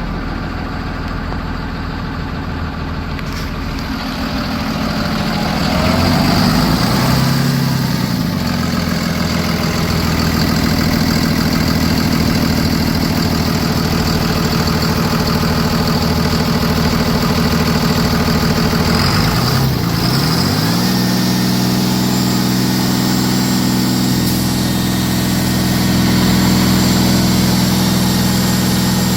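Cummins ISB 6.7 inline-six turbo diesel engine running. Its speed picks up about four to six seconds in, dips and climbs again about twenty seconds in, then holds steady at the higher speed.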